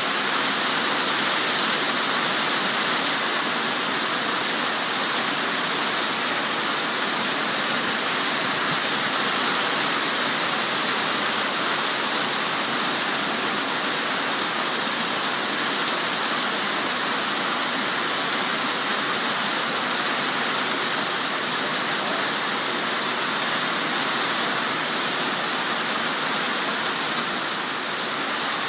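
Heavy rain shower pouring down: a steady, even hiss of rain that keeps up without let-up.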